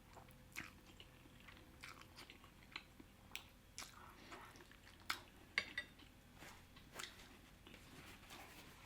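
Close-miked chewing of shrimp Alfredo pasta: soft, wet mouth sounds and smacks coming irregularly, a dozen or so short clicks across the stretch.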